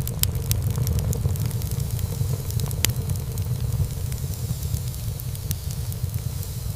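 Wood fire burning in a fireplace: a steady low rumble of flames with many small crackles of burning wood, and one louder pop about three seconds in.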